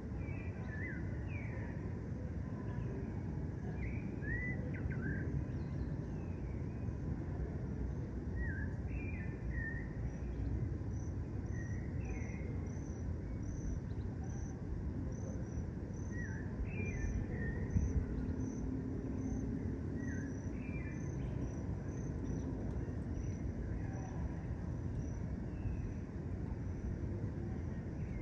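Dusk park ambience: birds calling with short, sweeping chirps throughout. From about ten seconds in, a cricket chirps in a steady pulse, about one chirp a second, for roughly a quarter of a minute. Under it all runs a constant low rumble.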